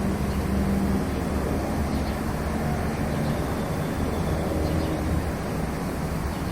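A steady low rumbling drone with faint held humming tones, unbroken throughout.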